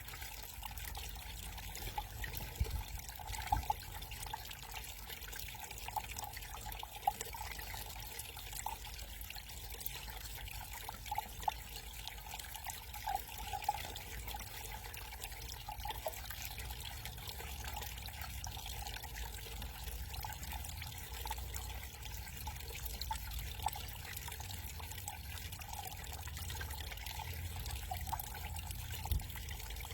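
Water trickling and splashing steadily down a small backyard waterfall, with scattered short drips.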